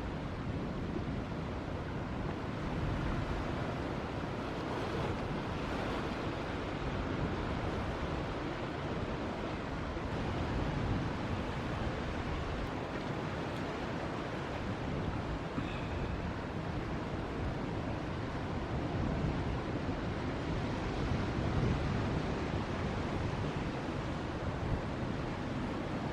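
Ocean surf: waves breaking and washing in a steady rush that swells and eases, with wind buffeting the microphone.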